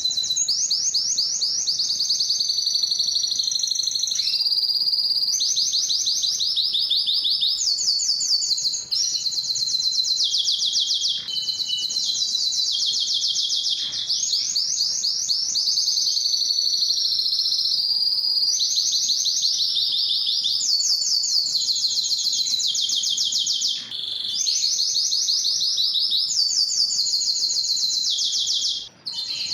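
Male domestic canary singing a long, nearly unbroken song of fast trilled rolls: each phrase is a rapid run of the same repeated note lasting a second or two, then the bird switches straight to another, with only a few short breaks.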